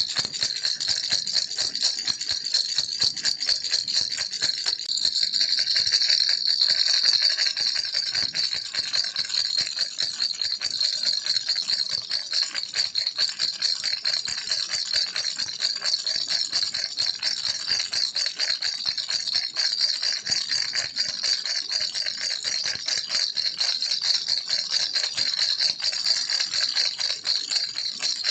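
A baby's toy rattle shaken steadily without a break, giving a dense stream of fast, bright, high clicks.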